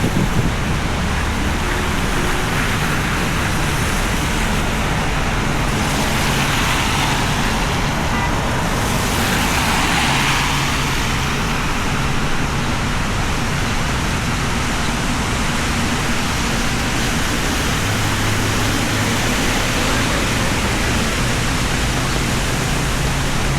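Rain falling on a city street with traffic on the wet road: a vehicle hisses past on wet pavement about six to eleven seconds in, over a low steady engine hum.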